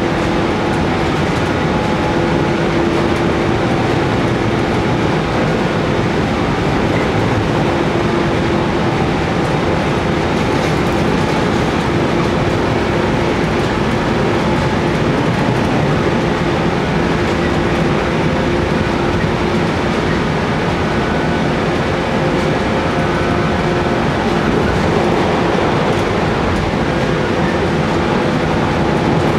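Inside the passenger car, a JR Kyushu 415 series resistance-control EMU runs at steady speed. Its MT54 traction motors hum and the wheels run on the rail, with a few tones holding a level pitch over the running noise.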